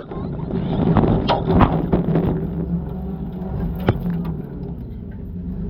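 A rallycross car's engine running steadily, with a few sharp knocks and clatter over it, around a second and a half in and again near four seconds.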